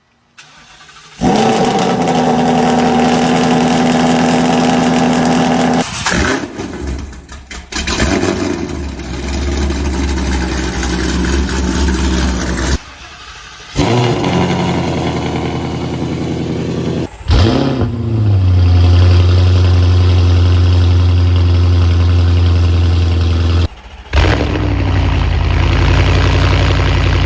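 A run of different car engines cold-starting one after another: each catches with a brief rev flare and settles into a loud, steady high idle, with abrupt cuts between clips.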